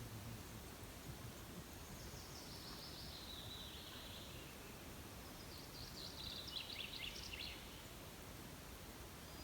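Songbird singing faintly over steady background noise: a descending phrase of quick high notes lasting about two seconds, then a short burst of rapid high notes a few seconds later.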